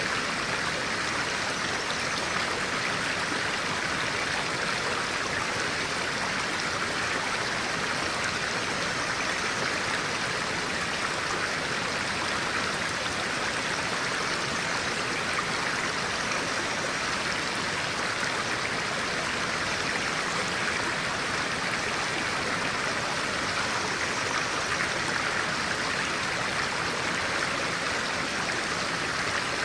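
Stream of clear water flowing steadily, an even rushing babble with no break.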